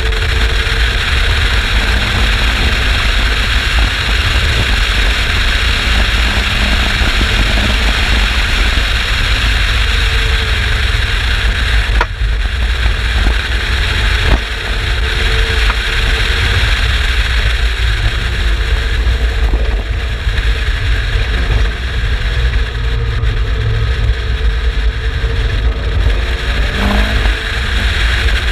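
Turbocharged Mazda MX-5 BP four-cylinder engine in an Exocet running at track speed, with engine pitch rising and falling under a steady loud rush of noise.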